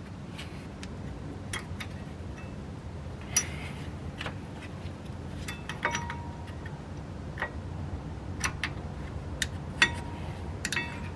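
Sharp metallic clicks and light clinks, about a dozen at irregular intervals, some ringing briefly, as metal brake-pad hardware clips are handled and pressed into a disc-brake caliper bracket. A low steady hum runs underneath.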